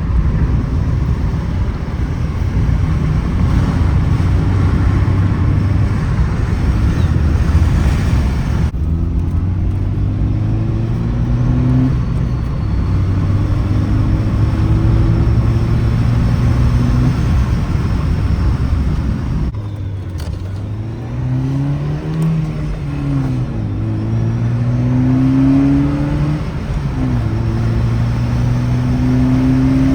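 Honda Fit's 1.5-litre four-cylinder engine accelerating hard, heard from inside the car: its pitch climbs in each gear and drops back at each shift. Road and wind noise dominate the first several seconds, and the engine stands out more plainly from about nine seconds in.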